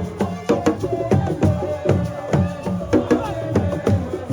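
Percussion-led music: drums struck in a quick, dense rhythm, about four strikes a second.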